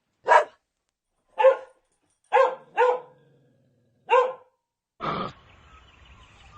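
A dog barking: five short single barks with pauses between, two of them close together in the middle. Near the end a different short call starts over a steady background hiss.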